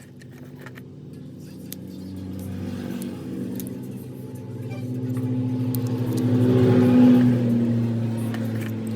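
Honda CG125 motorcycle's single-cylinder four-stroke engine running, revved up gradually to a peak about seven seconds in, then easing back.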